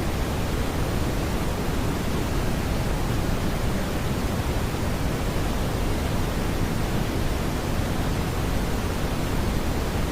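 Smoothed brown noise: an even, unbroken hiss-like rumble, weighted heavily toward the low end, with no tones or changes.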